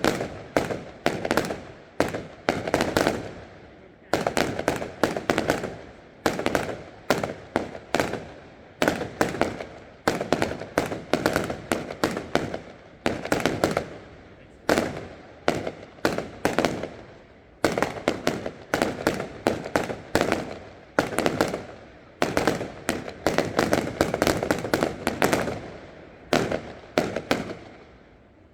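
Fireworks display: aerial shells bursting in quick succession, one to three sharp bangs a second, each trailing off in a crackling echo. The barrage stops shortly before the end.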